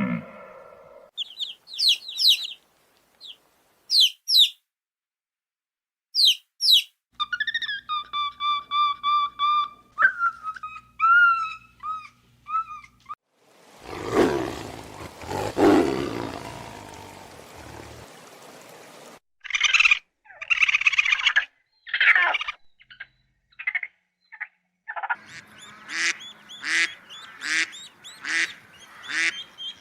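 A series of different animal calls, mostly bird-like: short high chirps, then held whistled calls, a burst of noisy sound about halfway, and a quick run of repeated calls near the end.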